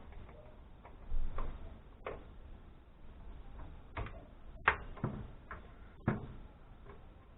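Irregular clicks and knocks of hand tools and loose screws against the amplifier's metal chassis as it is unscrewed, with sharper knocks about a second in, near the middle and about six seconds in.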